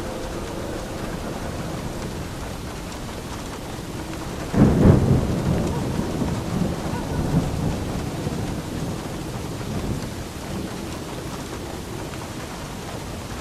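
Steady rain falling, with a sudden crack of thunder about four and a half seconds in that rumbles on and fades over the next several seconds.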